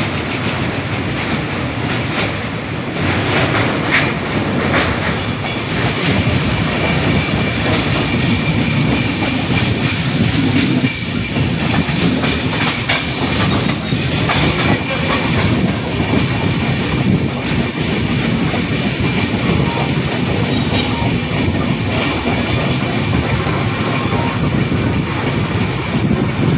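Passenger train running along the track, heard from on board: a continuous loud rumble of the coach with the clickety-clack of the wheels over the rail joints.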